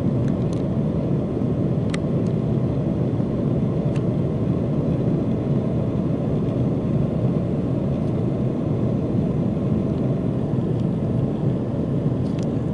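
Steady roar of a commercial jet airliner's cabin in flight, engine and airflow noise heard from inside, with a few faint clicks.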